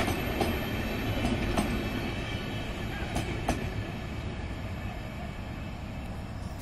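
Coaches of an Indian Railways express train rolling past on the track, with sharp wheel clicks over the rail joints now and then. The rumble slowly fades as the last coach goes by and the train draws away.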